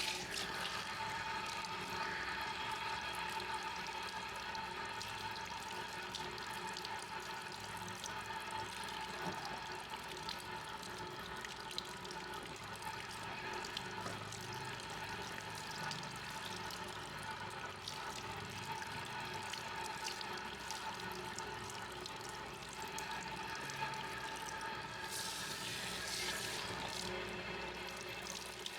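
Water running steadily from a tap, with a brighter, hissier rush for a couple of seconds near the end.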